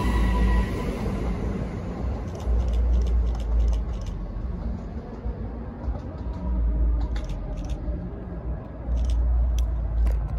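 Electric multiple-unit train pulling away along the platform, its motor whine fading out over the first two seconds. Then gusts of wind buffet the microphone in deep rumbles that come and go several times.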